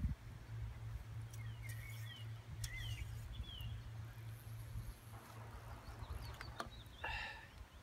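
Steady low wind rumble on the microphone, with a small bird calling in several short falling chirps a couple of seconds in. A few sharp clicks and a brief rustle come from a fishing rod and its line being handled.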